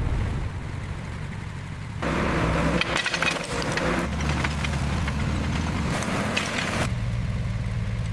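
Low, steady rumble of a heavy engine. About two seconds in, a louder stretch of crackling, splintering noise lays over it for nearly five seconds, then stops.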